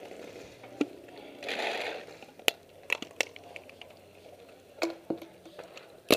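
Scattered sharp cracks of paintball markers firing, about six single shots spread over several seconds, with a brief rustle of movement near the middle.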